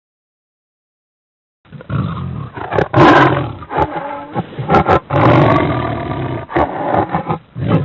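Tiger roaring, several roars in a row, starting about two seconds in after a silence.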